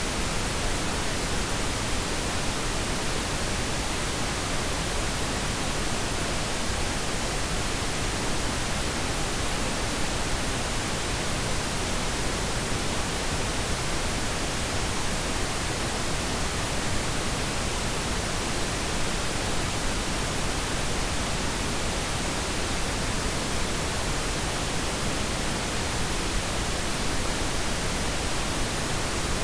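Steady synthetic pink noise: an even, unchanging hiss with no events or changes.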